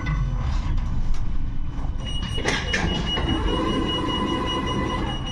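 Interior noise of a 71-628-02 tram: a steady low rumble from the running gear, with a couple of knocks about two and a half seconds in. A steady high-pitched whine sets in about two seconds in and holds through the rest.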